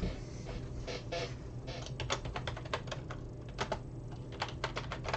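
Typing on a computer keyboard: an uneven run of quick key clicks.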